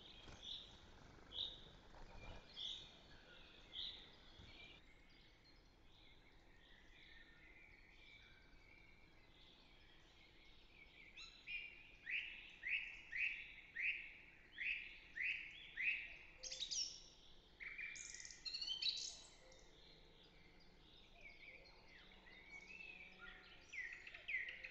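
Wild birds calling and singing. First a short high call comes about once a second. Later a run of quick down-slurred notes comes about two a second, followed by more varied song and a few more down-slurred notes near the end.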